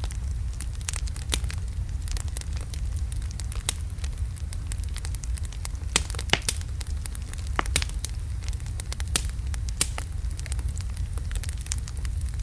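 Wood fire of large logs burning in a fireplace: a steady low rumble of the flames with irregular sharp crackles and pops, a few louder pops about halfway through.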